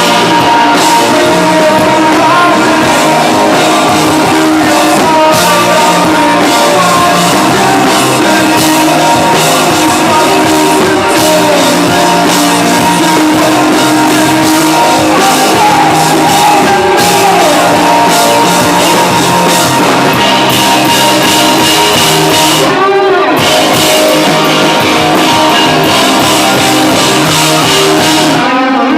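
Live rock band playing loud: electric guitars, bass and drum kit.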